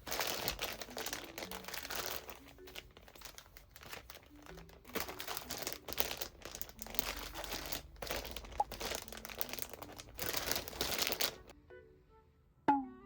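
Crinkling and rustling of packaging or material being handled, in irregular bursts that stop about a second and a half before the end, over soft background music. Near the end comes one sharp click.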